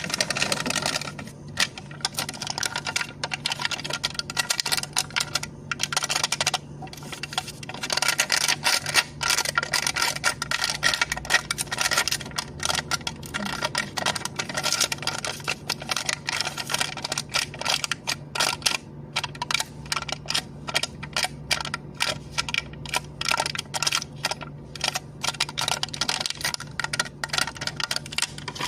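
Cup lid being tapped and clicked rapidly with the fingers: a dense, uneven stream of small clicks, over a faint steady low hum.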